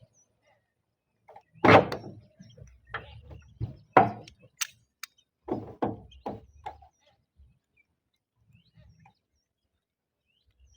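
Irregular knocks and thuds from roof repair work, as roof tiles are handled and fitted. The two loudest come about two seconds and four seconds in, followed by a quick pair; after that it falls nearly quiet.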